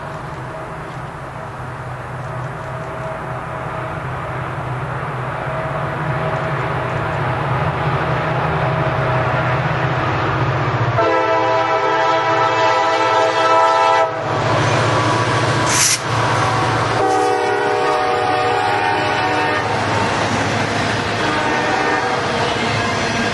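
CSX freight train's lead diesel locomotives approaching and passing, their engines rumbling louder as they near. The air horn sounds two long blasts, one about halfway through and one a few seconds later, with a sharp crack between them. Then the freight cars roll past with wheels clattering on the rails.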